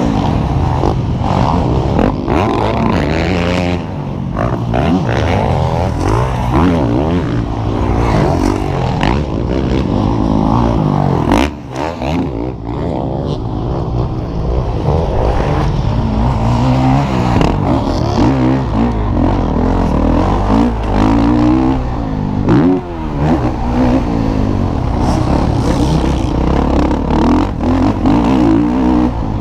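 Several MX1-class motocross bikes racing, their engines revving up and dropping back over and over as they accelerate, shift and brake around the track. The sound dips briefly about twelve seconds in.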